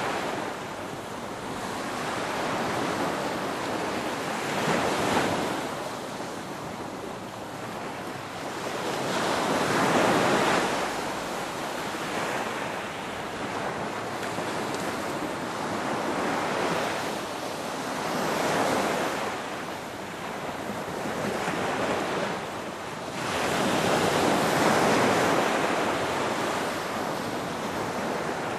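Ocean waves breaking and washing on the shore, the surf swelling and subsiding every few seconds, with the loudest surges about ten seconds in and again near the end.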